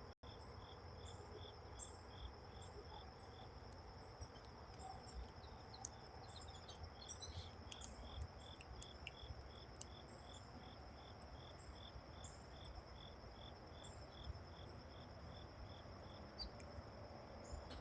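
Faint crickets: one steady high trill, with a second insect chirping evenly about two to three times a second. Occasional short, high chip notes, likely small birds, sound over them.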